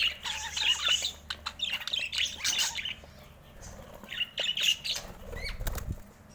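Budgerigars chirping and chattering, busy for about the first three seconds, then sparser with a short burst of chirps just past the middle. A brief low rumble comes near the end.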